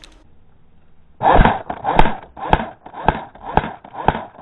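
Footsteps, about two a second, starting about a second in, each step a thud with a scuffing rustle, loud and close to the microphone.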